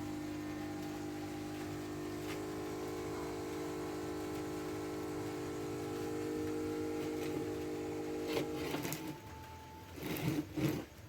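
A small motor running with a steady hum, then a few short knocks and clatters near the end.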